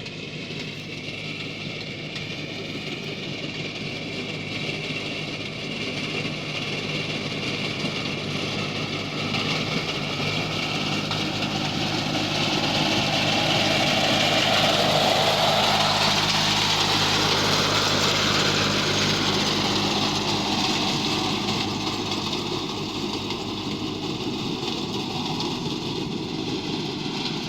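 VST compact tractor with a reaper attachment running steadily, growing louder toward the middle and easing off again.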